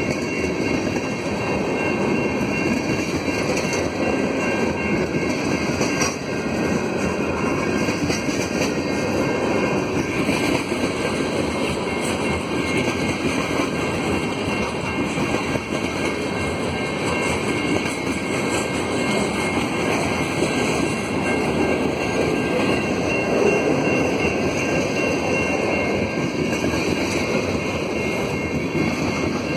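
Freight train of tank cars rolling steadily past a level crossing: a continuous rumble of steel wheels on the rails.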